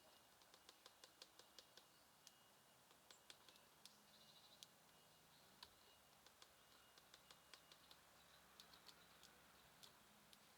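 Small birds at a feeder: faint, sharp clicks in quick runs of several a second, with a few short high chirps.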